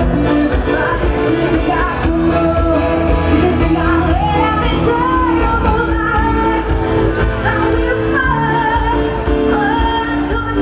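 Live band music with a singer, loud and continuous, with a steady bass line under a sung melody.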